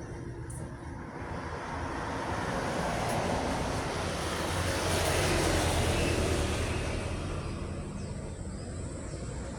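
A heavy road vehicle, most likely a truck, passing by: a low engine hum and tyre noise swell up, loudest about halfway through, then fade away.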